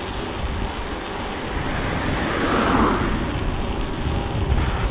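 Wind rumbling on the microphone of a moving bicycle, with a swell of hissing road noise about halfway through.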